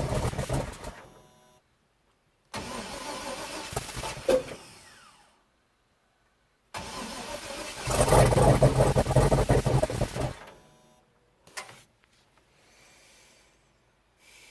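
Swapped-in 6.0-litre V8 in a Chevy S10 on its first start-up attempts: the engine fires three times, each time running briefly and dying away. The third attempt is the loudest and runs longest.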